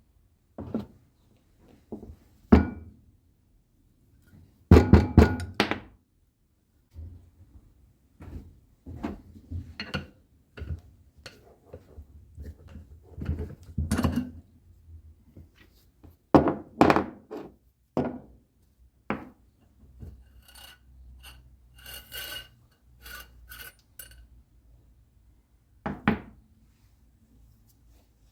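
Irregular knocks, clunks and scraping from hand tools and metal parts being handled during motorcycle fork work. The loudest is a quick cluster of knocks about five seconds in, and a run of light ticks comes near the end.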